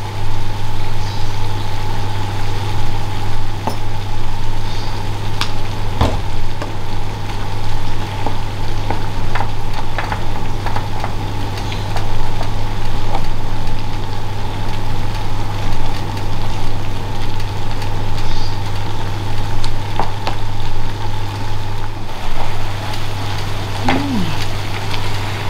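Sliced beef with onions and chilies sizzling as it is stir-fried in a pan, with a wooden spatula scraping and knocking against the pan now and then, over a steady low hum.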